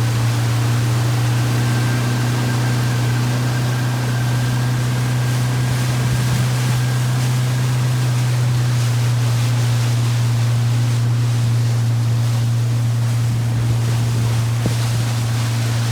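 Motorboat engine running at a steady speed as a loud, even low hum, with water rushing past the hull and wind noise on the microphone.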